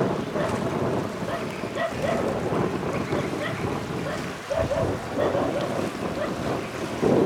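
Gusty wind buffeting the microphone over a steady wash of water.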